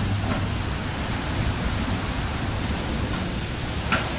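Steady heavy rain pouring down in a thunderstorm, a dense even hiss of falling water, with one sharper drop splash near the end.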